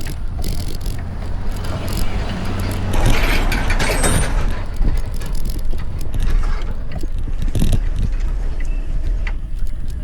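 Riding noise: wind rumbling on the microphone, with tyre and drivetrain noise from a moving bike. The noise swells for a couple of seconds about three seconds in.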